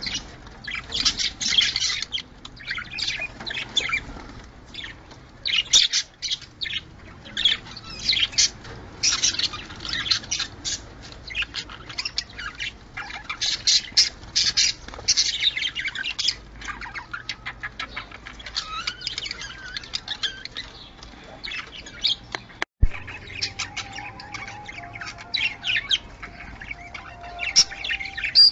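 Budgerigars chirping and chattering without pause, in quick, warbling strings of high chirps and squawks. This is the kind of chatter played to stimulate budgies to breed. A brief break with a click comes about 23 seconds in.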